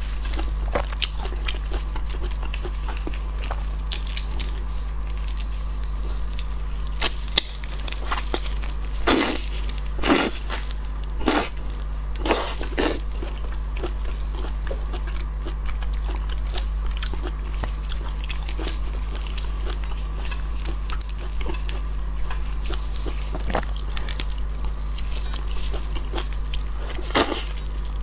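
Close-miked eating of seafood: chewing and biting with scattered small clicks and cracks, the strongest strokes around 9 to 13 seconds in and again near the end, over a steady low hum.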